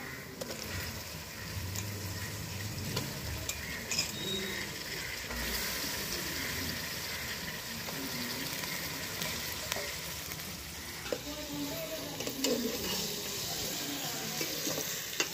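Chopped onions and green chillies sizzling in an aluminium pot, with a metal spoon stirring and clicking against the pot; raw chicken pieces go in about five seconds in and the frying continues, the hiss a little stronger.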